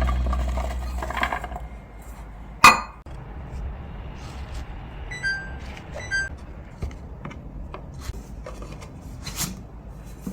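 Kitchen containers and dishes being handled and set down: scattered clinks and taps, with one sharp knock about two and a half seconds in. Background music fades out at the start.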